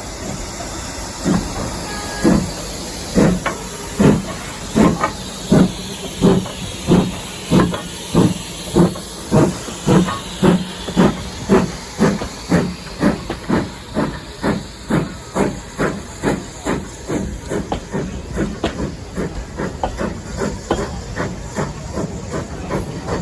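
Steam locomotive pulling away, chuffing over a steady hiss of steam. The exhaust beats come about once a second at first and quicken to two or three a second as it gathers speed, growing fainter toward the end.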